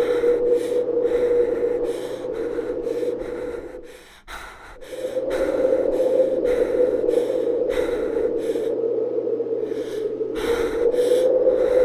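Tornado sound effect: steady rushing wind with a howl held at one pitch and a rapid flutter in the hiss, dropping away briefly about four seconds in before building back.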